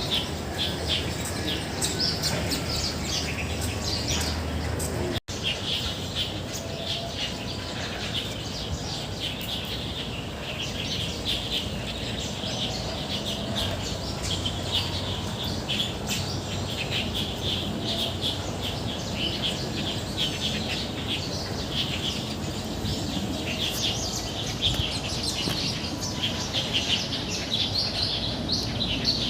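A chorus of many small birds chirping and calling at once, short overlapping notes in dense, continuous song. The sound cuts out for an instant about five seconds in.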